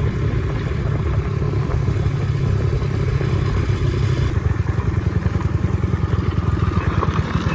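Small single-cylinder dirt bike engine, a Honda CRF70, running steadily while being ridden, its firing pulses coming in a rapid even chatter.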